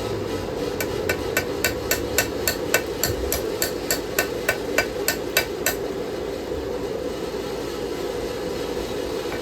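Hand hammer striking hot knife steel on an anvil: a quick, even run of about nineteen ringing blows, roughly four a second, that stops about six seconds in, as the smith works out a ding in the blade. A steady rushing noise from the running forge continues underneath.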